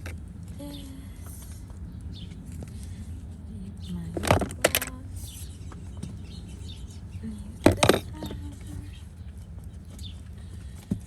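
Small beauty-product containers clacking as they are picked up and set down, in two short bursts a little before halfway and about two-thirds through, over a steady low hum.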